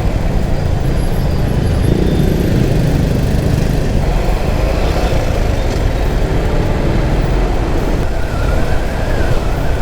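Motorcycle riding in dense city traffic: a steady low rumble of engine and road noise, with other motorcycles and vehicles around. A faint wavering higher tone joins near the end.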